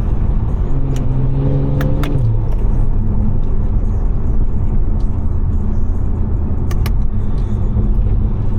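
Stage 2 tuned BMW 540i's B58 turbocharged inline-six engine driving, heard from inside the car: a held engine note drops in pitch about two seconds in, then settles into a steady low drone with road noise. A few sharp clicks come through, three in the first couple of seconds and two close together near seven seconds.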